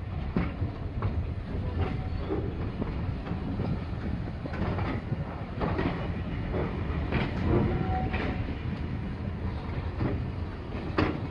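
Heritage railway passenger train running, heard from a carriage window: a steady low rumble with irregular clicks and knocks as the wheels pass over rail joints, the sharpest one near the end.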